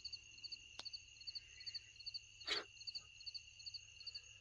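Night insect chorus, faint: crickets chirping in short, evenly repeated pulses over a steady high-pitched drone. A single light click about a second in and a brief soft knock about halfway through.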